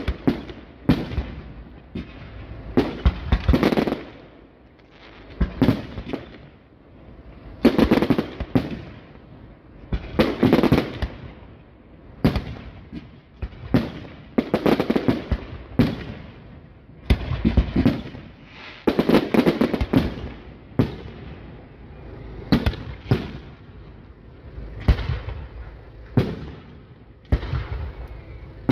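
Aerial firework shells bursting one after another, sharp bangs every second or two, many trailing off over a second or so.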